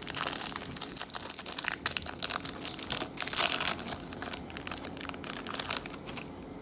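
A trading card pack wrapper being torn open and crinkled by hand, with dense crackling that is loudest about three and a half seconds in, then lighter rustling as the cards are pulled out.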